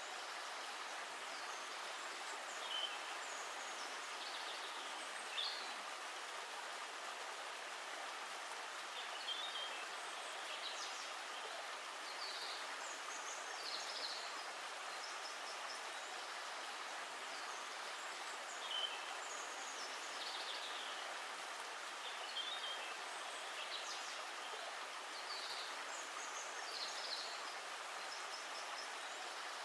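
Steady rushing water, with short high bird chirps scattered every few seconds.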